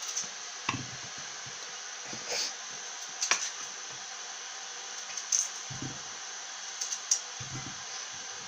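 A knife cutting peeled potatoes into quarters: a handful of short, sharp knocks of the blade going through, spaced a second or so apart, with a couple of duller thuds, over a steady hiss.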